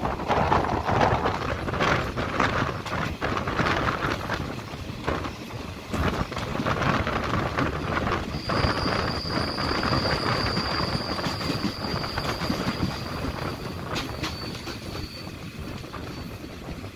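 Passenger train running on the track, heard from aboard: a steady rumble of the wheels and carriage with irregular rail clacks. About halfway in, a thin steady high whine joins the running noise.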